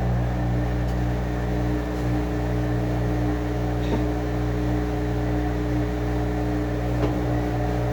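Washing machine running with a steady motor hum, a few faint ticks about four and seven seconds in.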